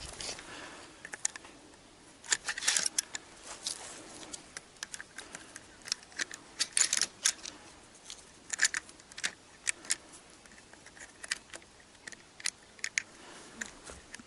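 Irregular sharp clicks and light rattles of something being handled, with the loudest clicks about two to three seconds in and again around seven seconds in.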